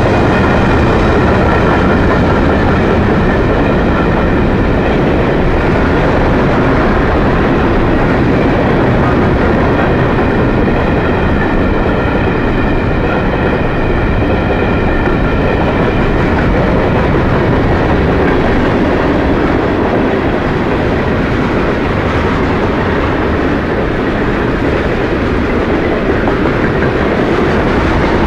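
Freight cars of a long Florida East Coast Railway train rolling past close by: a steady, loud rumble of wheels on rail with clattering over the joints. A high steady whine rides over it for roughly the first half.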